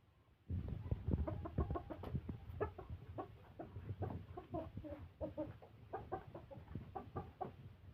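Chickens clucking: a rapid, continuous string of short clucks starting about half a second in, with a low rumbling noise underneath.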